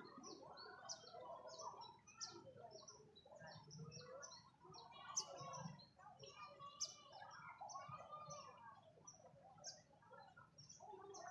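Faint chorus of small birds chirping, with many short, high calls overlapping throughout.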